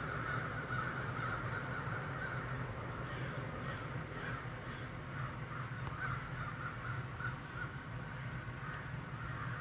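A flock of birds calling and chattering continuously, many short overlapping calls, over a steady low hum.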